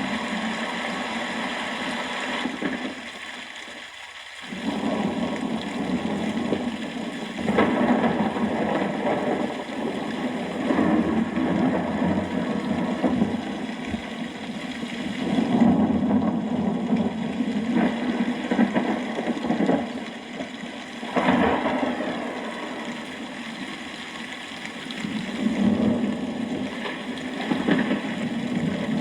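Rainstorm ambience: a steady wash of rain that swells and eases every few seconds, dropping away briefly about three to four seconds in.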